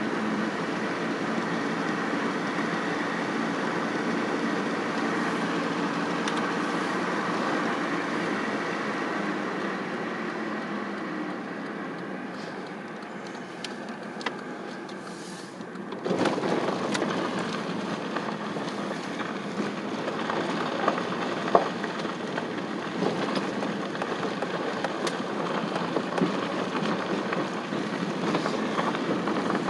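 Steady drone of an engine-driven vehicle on the move, with a low hum under a broad noise. About halfway through, the sound changes abruptly and grows louder, with a few small clicks after.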